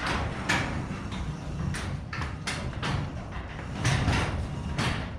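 Sectional garage door running along its tracks on newly fitted springs: a low rumble with a string of clacks from the rollers and panels.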